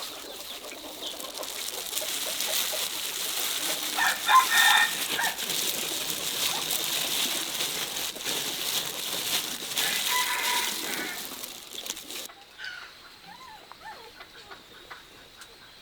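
Rooster crowing twice, about four and ten seconds in, over a steady hiss. About twelve seconds in the hiss cuts off, leaving a quieter background with faint chicken clucking.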